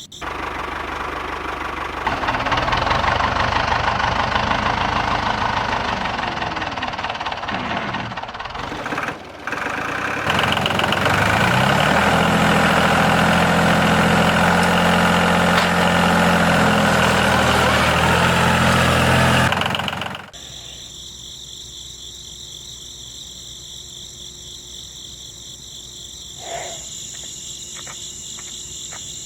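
A motor-driven machine running loudly and steadily, with a brief break about nine seconds in. It cuts off abruptly about twenty seconds in, leaving crickets chirping steadily.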